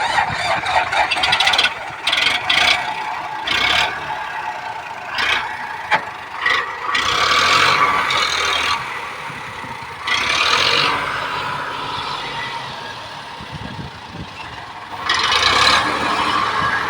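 Tractor diesel engine running and revving up in several louder surges.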